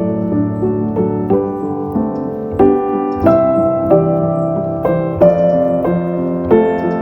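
Slow, gentle solo piano music, single notes and chords struck about every half second to second and left to ring.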